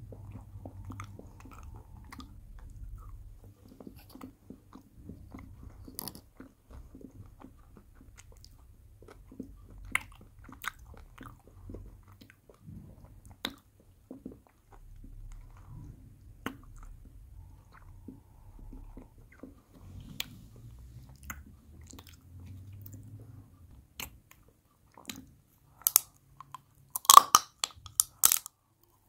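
Chewing and crunching of a chocolate candy ball, soft mouth sounds with scattered small clicks. Near the end, a cluster of loud sharp crackles and clicks as a gummy ball in a plastic wrapper is bitten into.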